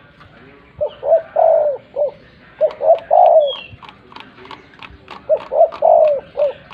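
Spotted dove (tekukur) cooing: three phrases, each of a few short coos around one longer drawn note, the last starting a little over five seconds in.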